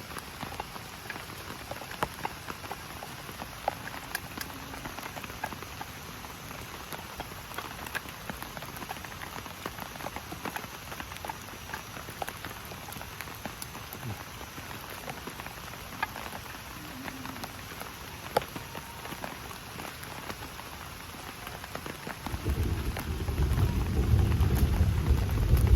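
Heavy rain falling steadily, with scattered sharp ticks of drops striking nearby surfaces. Near the end a loud, low rumble of thunder sets in and keeps going.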